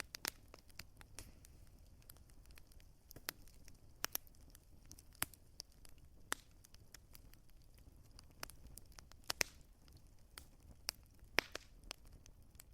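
Wood fire crackling in a fireplace: irregular sharp pops and snaps of burning wood over a soft, steady hiss.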